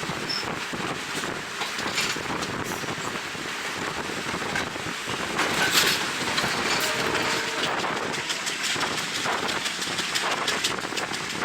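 Passenger train running along the track: wind rushing over the microphone at the open window, with the wheels clicking and clattering over the rails throughout.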